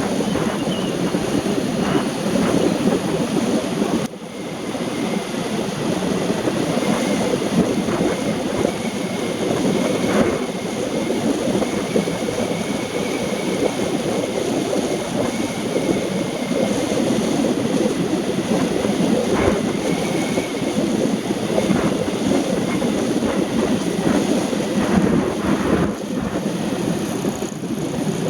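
Steady rushing noise of a car driving on wet roads in the rain, tyres hissing through water with road and wind noise. The noise drops briefly about four seconds in.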